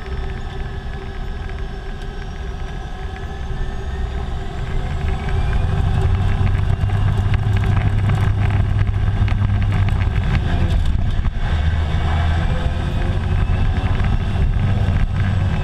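Air Tractor AT-502's Pratt & Whitney PT6A turboprop running, a low propeller drone under a thin turbine whine. It gets louder about five seconds in, and the whine rises in pitch.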